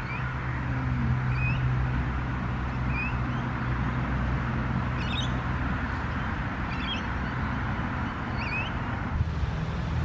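A small bird repeating a short rising chirp about every second and a half, over a steady low wind rumble on the microphone.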